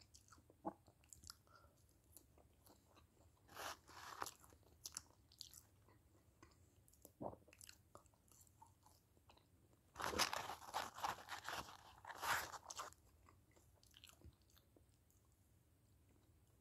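A person chewing and crunching nacho fries, in short bouts separated by quiet stretches; the longest and loudest bout comes about ten to thirteen seconds in.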